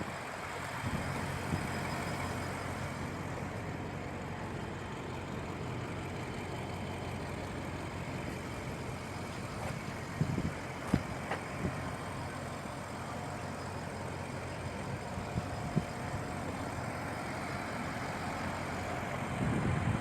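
BMW 650i's twin-turbo V8 idling steadily, heard from outside the car, with a few light knocks about ten seconds in.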